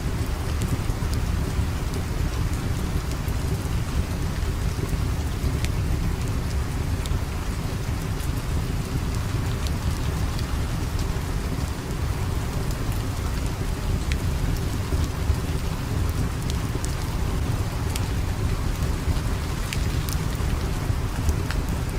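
Steady heavy rain with a continuous low rumble and scattered sharp ticks of drops or crackles.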